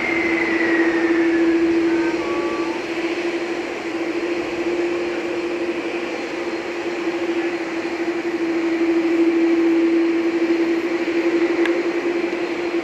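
Jet engines of a Boeing 747-400 freighter running loudly during its landing roll: a steady roar with a strong, unchanging hum. A fainter falling whine fades out in the first second or two.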